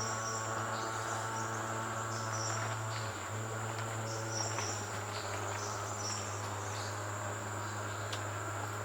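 Steady high-pitched insect drone with short high chirps scattered through it, over a constant low hum.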